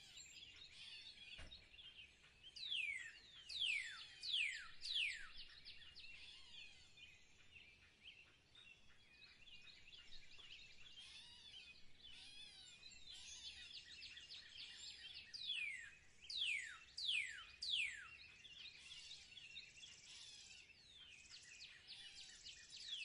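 Eurasian siskin twittering song, with loud, sharp calls sliding steeply down in pitch in a run of four about three seconds in and again around sixteen seconds in.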